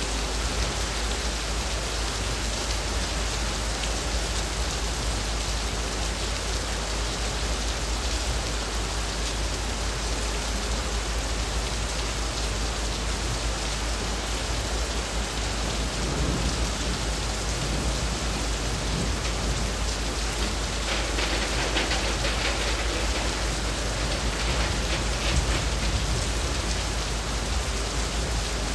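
Heavy rain falling on leaves: a steady, dense patter that grows a little busier about three-quarters of the way through.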